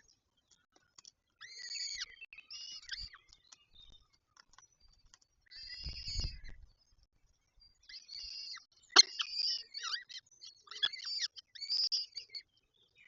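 Peregrine falcons calling at the nest: a run of short, high, harsh calls coming in clusters, busiest in the second half. There is a low rumble under one call about six seconds in.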